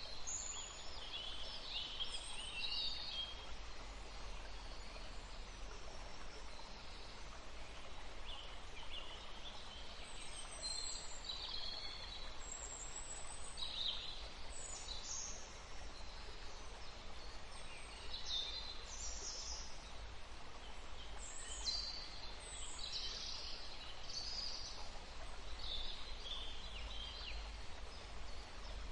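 Songbirds chirping and singing in short, high calls scattered throughout, some sliding up or down in pitch, over a steady low rumble of background noise.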